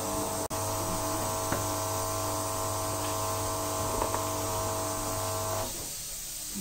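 Small electric power tool motor running steadily at one speed, a constant hum with many overtones, which stops near the end.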